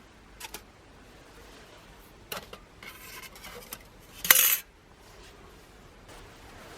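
Light metal pieces clinking and rattling as they are handled: a few small clinks, a short scrape, then a louder clatter about four seconds in.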